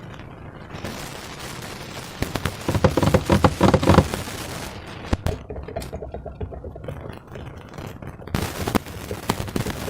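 Slime being squeezed and worked by hand, giving a dense run of rapid crackling pops and squelches that is loudest a few seconds in.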